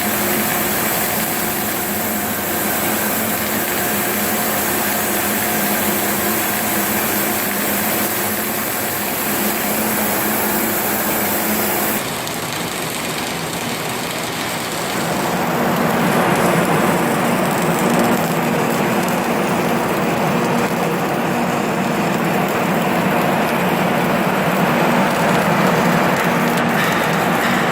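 Steady industrial machine noise with a low hum. The sound changes abruptly about twelve seconds in, then grows louder and denser a few seconds later.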